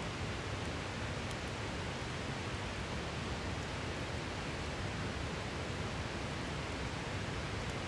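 A river rushing steadily, with a few faint crackling ticks from a campfire.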